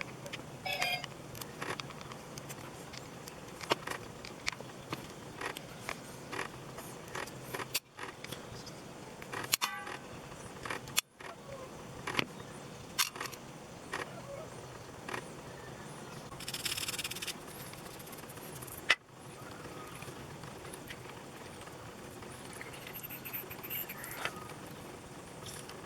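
Small metal chainsaw parts and tools clicking, clinking and scraping as they are handled, in scattered irregular knocks. There is a short hiss a little after halfway through.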